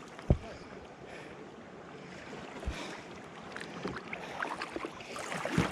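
Canoe being paddled: water washing and wind on the microphone, with a sharp knock about a third of a second in and a softer knock a little past the middle.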